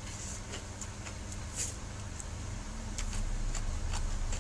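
Close-up eating sounds of a person chewing fried rice vermicelli, with short soft clicks from mouth and fork about every half second, over a steady low hum.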